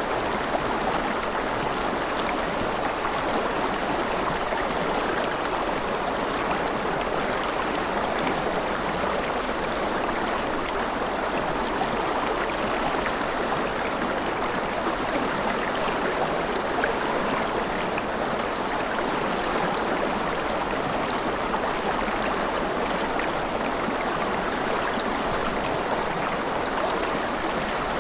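River water flowing and splashing in a steady, even rush with small gurgles.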